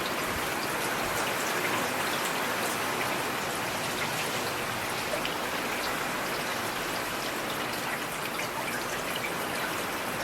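Steady rain falling, with individual drops tapping on a surface.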